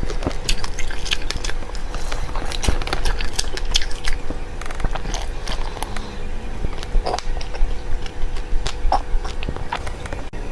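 Seeds being crunched and chewed in the mouth at close range: many irregular sharp crackles and clicks, several a second.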